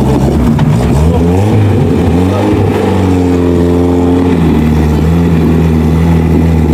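Off-road 4x4's engine working under load, its revs rising and falling about halfway through, then running steadily.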